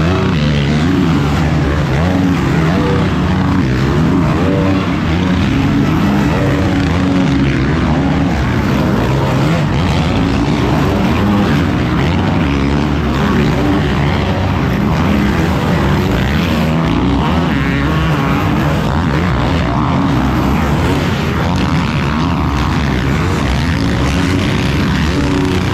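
450cc motocross race bikes running hard, their engines revving up and down through the gears.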